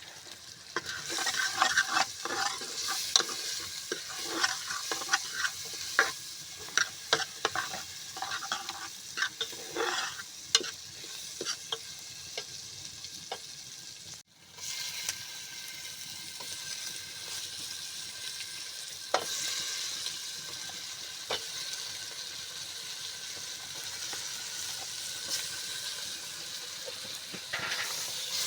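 Food frying in oil in a pot over an open fire, sizzling while a spoon stirs and scrapes against the pot with quick repeated knocks. About halfway through there is a brief break, after which the sizzling carries on steadily with only an occasional knock.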